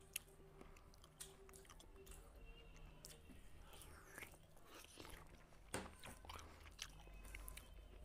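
A person chewing a mouthful of rice and curry eaten by hand: quiet, wet mouth clicks and smacks with a few sharp crunchy snaps.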